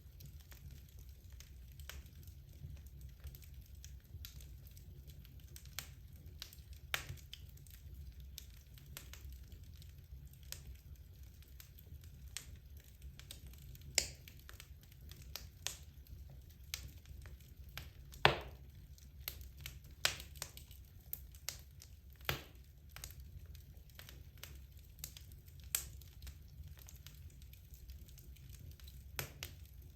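Wood fire burning in a fireplace: a steady low rumble of the flames with irregular sharp crackles and pops from the logs, the loudest pop about two-thirds of the way through.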